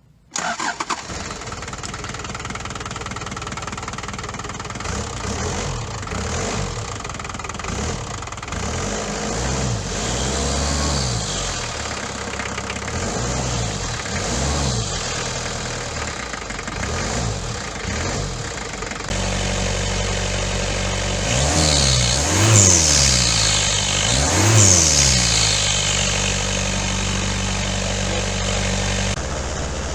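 Daihatsu Fourtrak pickup engine starting on its test run after reassembly, catching almost at once, then idling and being revved up and down many times, with two sharper, higher rev blips a little past the middle.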